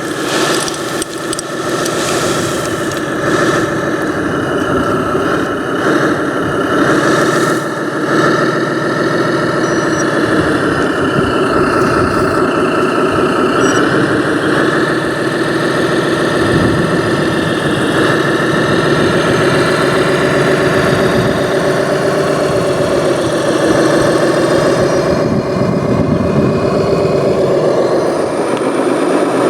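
Engine sound of a remote-controlled model construction vehicle, running steadily with its pitch rising and falling slowly as it works.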